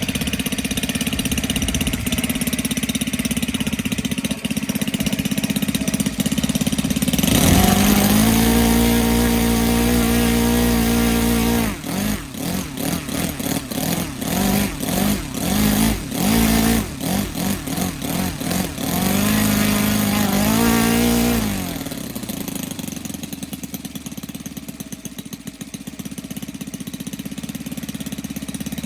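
Saito FA-182 four-stroke twin model aircraft engine, converted to CDI spark ignition and running on petrol, turning a wooden propeller through a 2-into-1 exhaust. It idles, is run up to high revs about seven seconds in, and is then blipped up and down about a dozen times. It is held high again briefly, then drops back to a steady idle at around twenty-one seconds.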